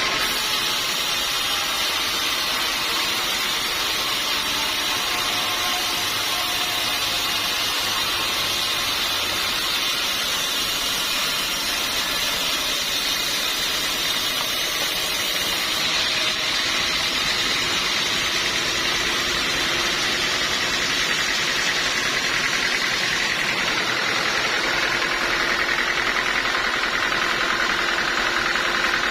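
Sawmill machinery running steadily: a continuous loud mechanical noise, with its highest hiss dropping away about halfway through.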